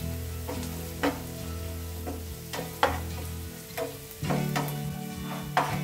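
Onions, garlic, green chillies and curry leaves sizzling in hot coconut oil in a nonstick frying pan while a spatula stirs them, scraping and tapping against the pan several times.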